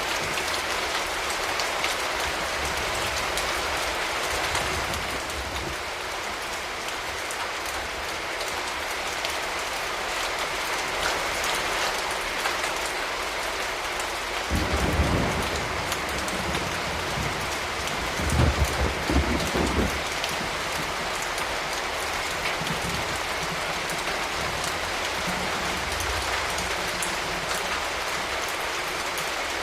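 Steady rain falling. Two brief low rumbles rise out of it about halfway through.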